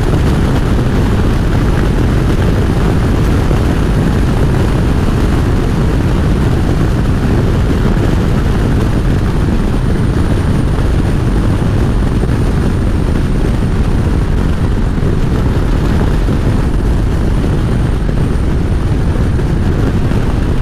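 Harley-Davidson V-twin motorcycle riding at road speed: a steady rush of wind and engine noise.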